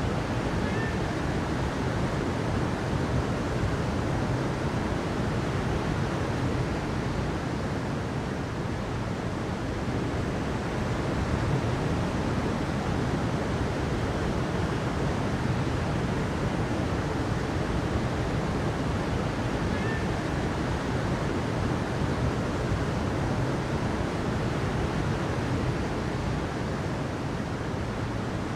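Steady, even rush of flowing water, a constant noise with no swells or breaks. Two faint short chirps sound over it, about a second in and again near the twenty-second mark.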